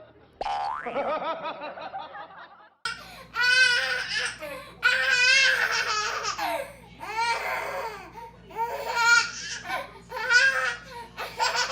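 A baby laughing hard in repeated high-pitched bursts, starting about three seconds in, after a shorter stretch of voice with a quick rising squeal.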